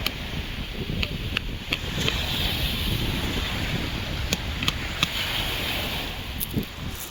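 Wind buffeting the microphone over the hiss of the sea at a beach, a steady low rumble with sharp small clicks scattered through it.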